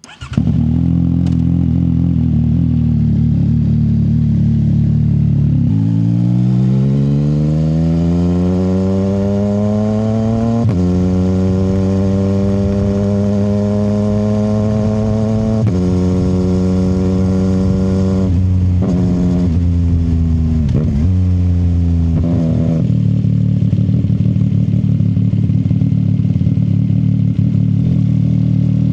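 CFMoto 675 SR-R's inline three-cylinder engine through an aftermarket short exhaust. It runs steadily for about six seconds, then rises in pitch as it accelerates, with upshifts at about ten and a half and fifteen and a half seconds. A run of quick pitch drops around eighteen to twenty-two seconds points to downshifts, and it settles back to a steady lower note.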